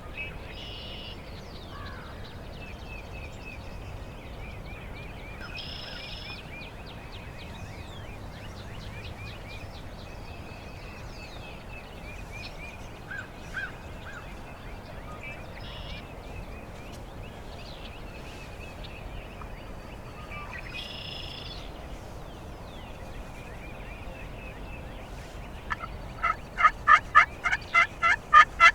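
Faint songbirds chirping and trilling, then near the end a loud series of turkey yelps, about three evenly spaced notes a second.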